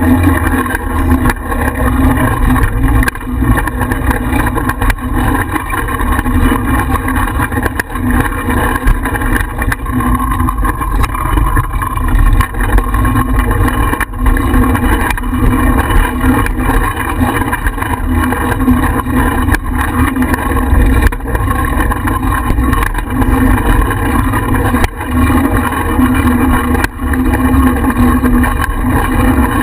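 Steady wind and road rumble picked up by a bicycle-mounted GoPro while riding, with frequent small knocks and rattles as the bike jolts over the surface.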